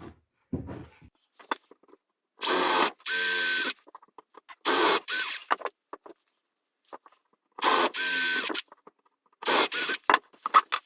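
Cordless drill driving screws into wood in several short bursts, each under a second, with a steady motor whine and pauses between them.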